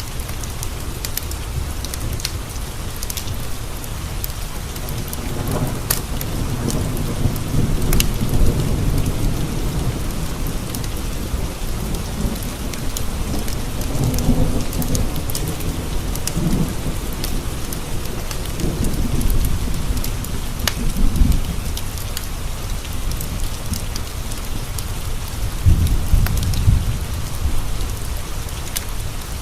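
Steady rain pattering on window panes, with low rolling thunder that swells and fades several times. Scattered sharp ticks run through it.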